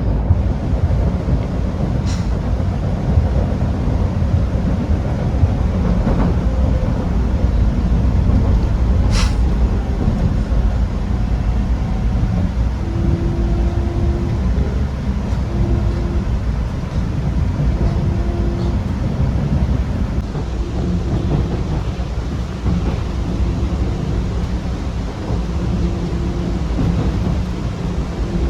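MBTA Red Line subway train running, heard from on board: a steady low rumble of wheels and motors. Two brief high squeals come about two and nine seconds in, and a faint tone pulses on and off through the second half.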